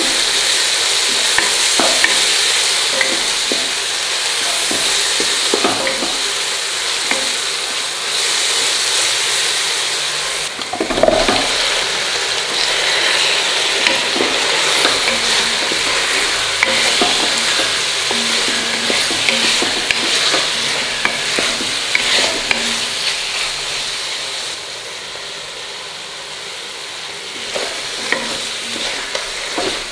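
Hot oil sizzling in a pan as onions and ginger-garlic-chilli paste fry, with a spatula scraping and stirring. About eleven seconds in, raw chicken drumsticks go into the oil and the sizzle jumps, then the stirring carries on as the spices are mixed in.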